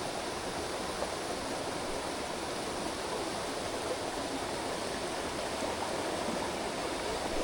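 Mountain headwater stream running: a steady, even rush of flowing water.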